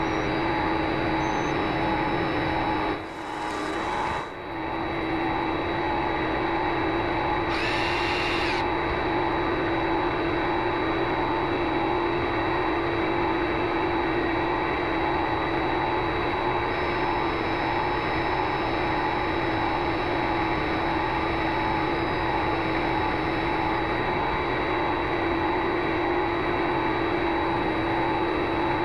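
Vevor MX400 mini lathe running steadily, its motor giving a constant whine. The sound dips briefly about three seconds in, and a short, harsher high-pitched sound comes about eight seconds in.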